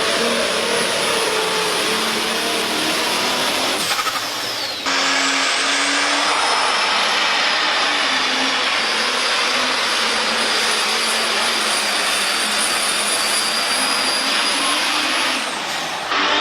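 International Harvester pulling tractor's engine running flat out under load in a tractor pull, loud and steady, with a faint high whistle above it. The sound dips and then jumps straight back about four seconds in and again near the end.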